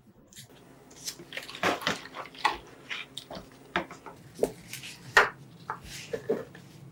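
Irregular clinks and knocks of small metal parts being handled in a container of liquid, with some splashing, during an attempt at metal plating.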